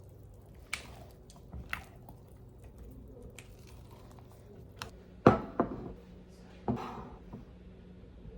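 Scattered knocks and clicks of objects being handled, the loudest a sharp knock about five seconds in, followed by two more.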